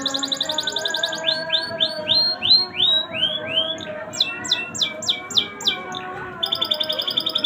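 Domestic canary singing in tours of repeated notes: a rapid high trill, then a run of slower swept notes, then more rapid trills.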